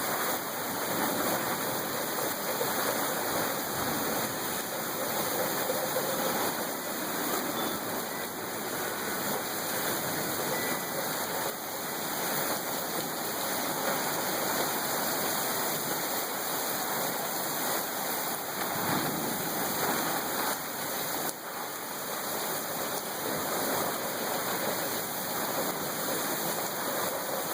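Heavy rain pouring steadily in a storm, an even rushing hiss with no breaks.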